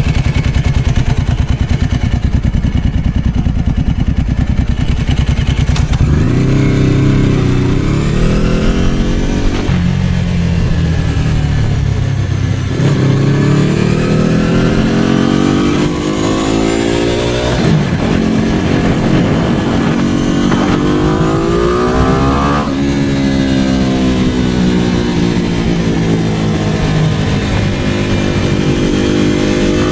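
Ducati 749's L-twin engine idling with a low pulse, then pulling away: the pitch climbs in several runs, each broken by a sudden drop at a gear change, and falls away gradually as the bike slows near the end.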